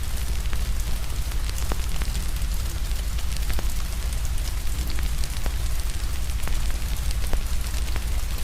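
Steady rain with a wood fire crackling: irregular sharp pops and snaps over a constant low rumble and hiss.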